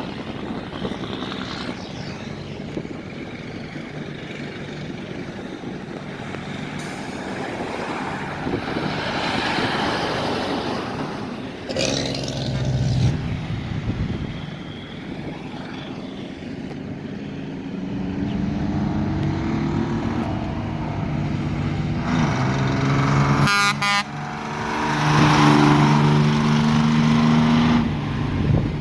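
Big trucks' engines running and moving past, their pitch rising and falling as they pull through, loudest in the last few seconds.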